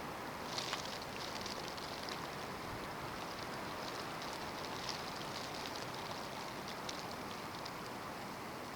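Snowstorm: a steady hiss of wind with scattered light ticks of snow grains striking a surface, starting about half a second in.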